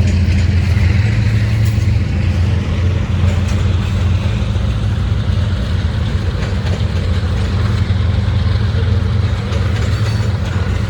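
Steady engine and road noise of a moving car, heard from inside the cabin as a constant low hum.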